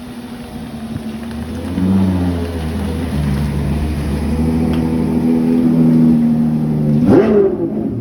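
Ferrari 812 Competizione's V12 idling steadily after a cold start. A short rev rises and falls back about seven seconds in.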